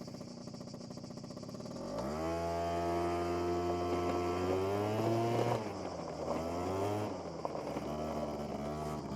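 SYM Jet2 50 two-stroke scooter engine idling, then opened up about two seconds in, its pitch climbing and holding as it pulls away. The revs drop back about halfway through and settle lower and steady near the end.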